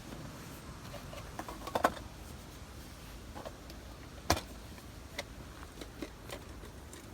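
Campfire crackling: scattered pops and snaps of burning wood, a quick cluster about two seconds in and one sharp pop just past four seconds, over a low steady rumble.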